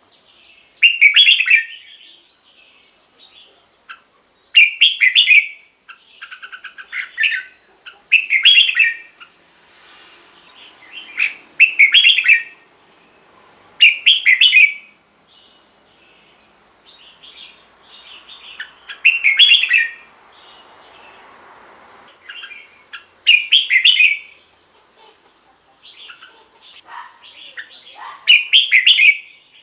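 Red-whiskered bulbul singing: a short, loud, bright song phrase every three to five seconds, with softer chirps between.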